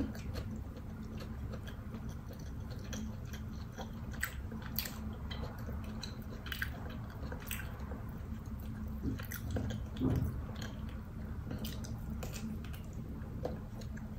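Close-up eating sounds of a person chewing and biting a chicken drumstick, with scattered wet mouth clicks and smacks over a steady low hum.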